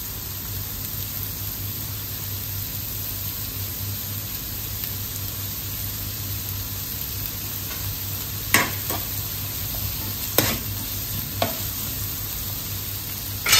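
Chopped onions and green chillies sizzling in coconut oil in a frying pan, a steady frying hiss over a low hum. From about eight seconds in, a few sharp clacks as a wooden spatula stirs and knocks against the pan.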